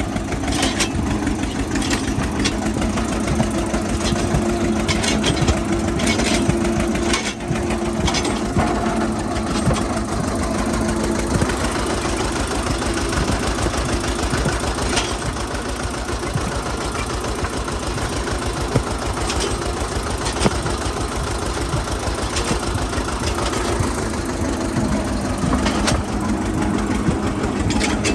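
Eicher 242 tractor's diesel engine running steadily with a continuous chugging beat.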